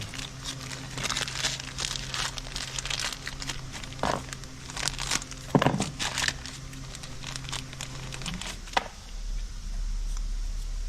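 Plastic wrapping crinkling and rustling in irregular bursts as a new oil filter and its rubber seals are unwrapped by hand. A faint steady low hum runs underneath and stops about eight seconds in.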